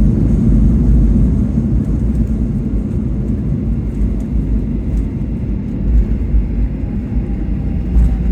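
Boeing 737-800 cabin noise on the ground just after landing: a steady low rumble of the jet engines and the wheels rolling on the runway, easing slightly a couple of seconds in. A few faint clicks near the end.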